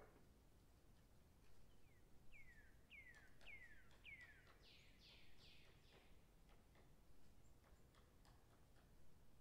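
Faint songbird singing: a run of about six short whistled notes, each sliding down in pitch, roughly two a second. The song fades out about two-thirds of the way through, and a few faint clicks are heard.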